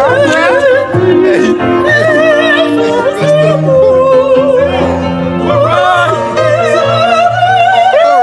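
A woman singing in an operatic style with a wide, wavering vibrato over sustained low accompaniment notes.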